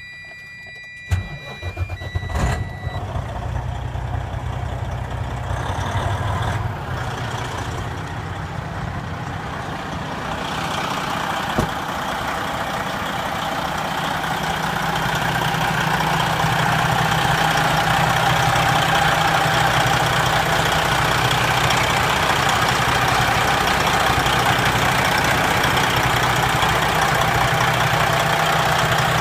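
A steady electronic warning tone, then the Detroit Diesel Series 60 engine of a 2008 Freightliner Cascadia tractor cranks and starts about a second in and settles into a running idle. The engine sound grows louder and steadier about halfway through.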